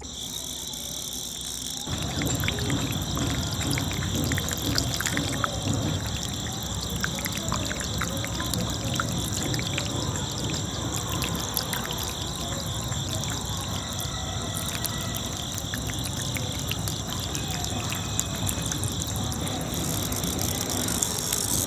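Small electric motor of a homemade toy seed spreader running with a steady high whine, over a pouring hiss scattered with many light ticks, like seeds spilling and landing. It gets louder about two seconds in.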